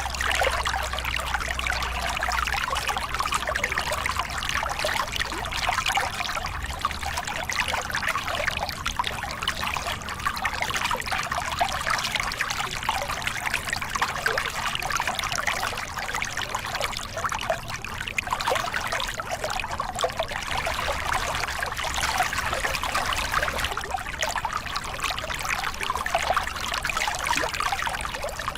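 Small river cascade: water pouring and splashing over rocks in a steady, unbroken rush.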